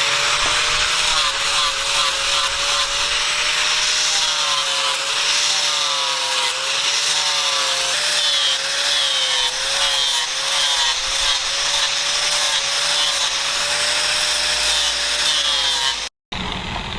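A power tool running steadily under load, its hum wavering a little in pitch over a loud hissing grind. It cuts off abruptly near the end.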